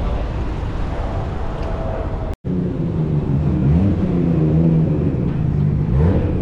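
Car engine idling, with short throttle blips that make its pitch rise briefly about three and six seconds in. Before that, a denser engine rumble that cuts off abruptly about two seconds in.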